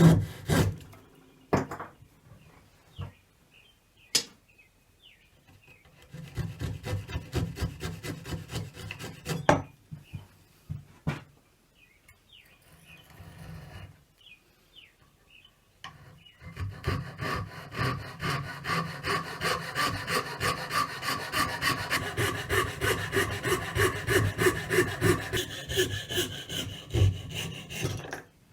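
A hand tool cutting wood in quick back-and-forth strokes, with a few sharp knocks in the first half. The strokes come in a short run, pause, then run on steadily through the second half.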